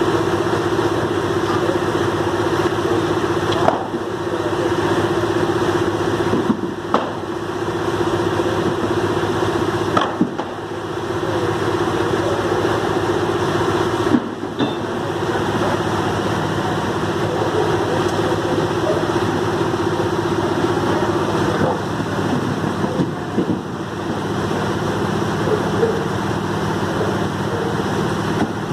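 Heavy truck engine running steadily, with a few brief knocks along the way.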